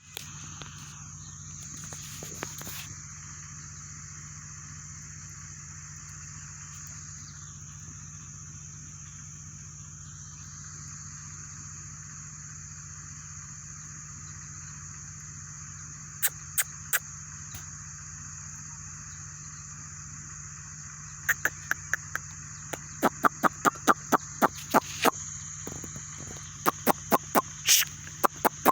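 A bird giving sharp, short chip calls, two about two-thirds of the way in and then a quick series of about two to three a second near the end, over a steady high-pitched drone.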